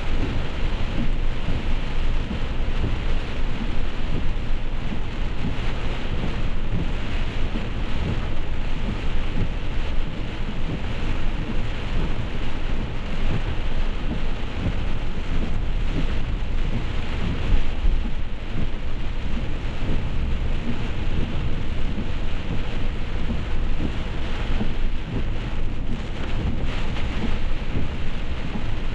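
Heavy rain falling steadily, over a continuous deep rumble with no distinct claps.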